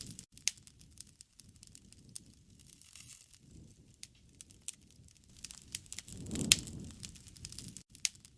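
Wood campfire crackling, with scattered sharp snaps and pops of burning wood. About six seconds in, a low rushing swell rises and falls, with a loud pop at its peak.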